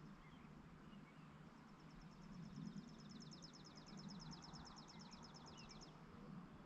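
A songbird's dry, rapid trill, about eight high notes a second, lasting roughly four seconds and starting a second and a half in. It is faint, over a low steady rural hum.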